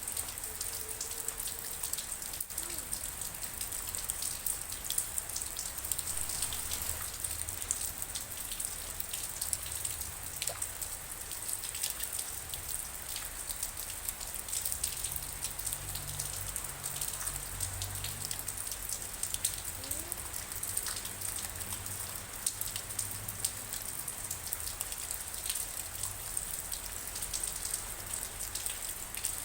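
Steady rain falling, a dense patter of countless drops with sharper individual drop ticks scattered through it.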